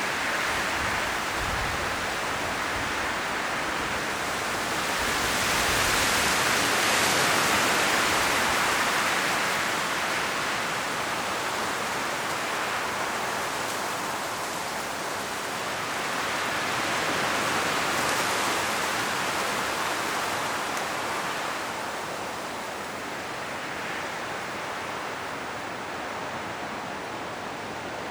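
Strong wind blowing through forest trees, rustling the autumn leaves in a steady rush that swells in slow gusts, strongest twice, about a quarter and two-thirds of the way through, and easing off near the end.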